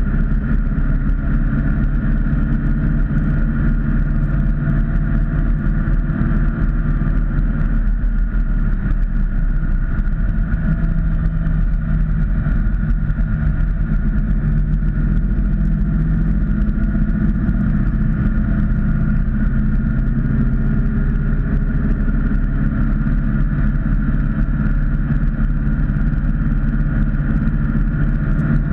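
Ford Mustang's engine and drivetrain heard from inside the cabin while cruising, a steady drone. About eight seconds in the note dips briefly, then settles back.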